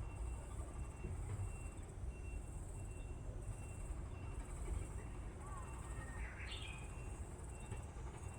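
Outdoor pond ambience: insects chirping in an even, repeating rhythm about twice a second over a steady low rumble, with one short bird call about six seconds in.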